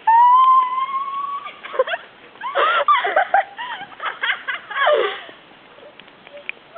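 A girl's long, high squeal, rising slightly and held for about a second and a half, followed by a run of shorter shrieks and shouts from several girls playing.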